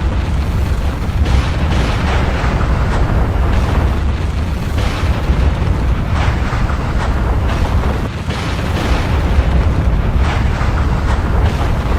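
Volcanic eruption: a continuous deep rumble with irregular blasts breaking through every second or two.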